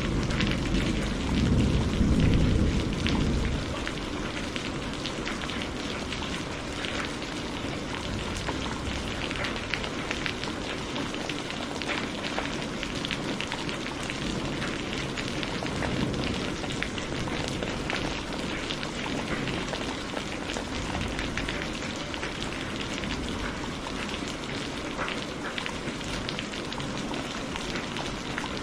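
Steady rain falling, a dense even patter. A low thunder rumble dies away in the first three or four seconds.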